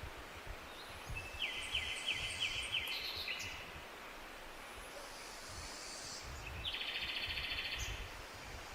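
Songbirds singing in a forest: a phrase of about seven quick, falling notes, then near the end a fast, buzzy trill lasting about a second and a half, over a low steady rumble.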